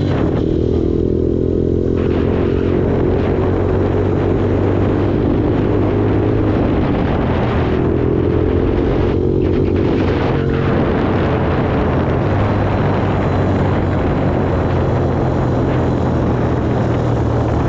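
Motor vehicle engine running steadily while under way, its pitch rising and falling a little now and then, with a rumbling rush of noise behind it.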